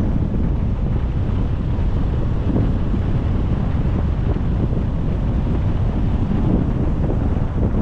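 Wind rushing over the microphone of a moving car, with a steady low rumble of road and engine noise.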